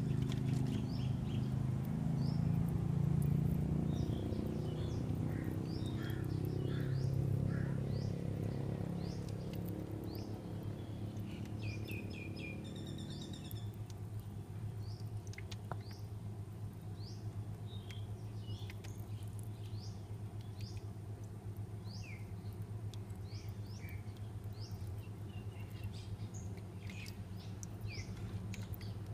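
Small birds chirping over and over, short high chirps scattered through, over a steady low hum that is fuller in the first half and eases off about halfway.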